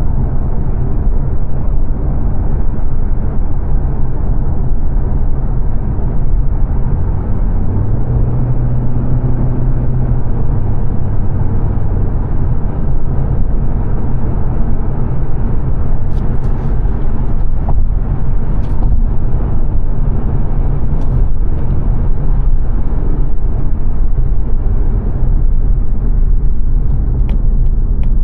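Steady in-cabin driving noise from a 2022 Mazda 3 saloon: tyre and road rumble with a low engine hum, the engine note swelling briefly about a third of the way in. A few faint clicks come in the second half.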